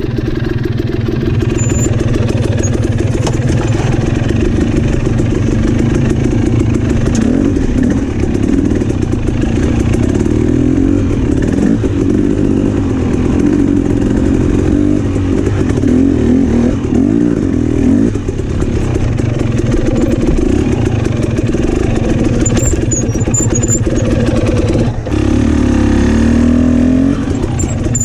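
Dirt bike engine running at low speed over rocky trail, the revs rising and falling again and again as the throttle is worked. It drops briefly near the end, then picks up again.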